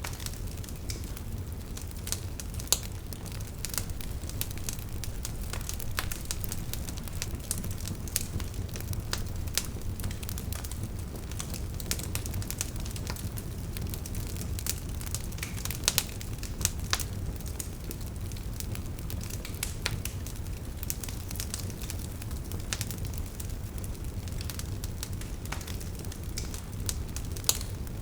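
Burning wood fire crackling, with a steady low rumble of flame and frequent sharp pops and snaps from the logs. A few louder pops stand out, about three seconds in, twice around the middle and near the end.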